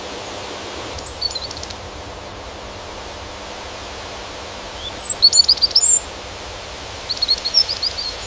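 A bird calling in three short phrases of rapid high chirps, the loudest about five seconds in, over a steady hiss of outdoor ambient noise.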